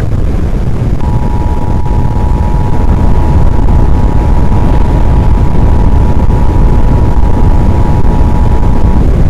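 Emergency Alert System two-tone attention signal, a steady dual tone starting about a second in and held for about eight seconds, the alert that introduces a tornado warning broadcast. Under it runs a loud, constant low rumble.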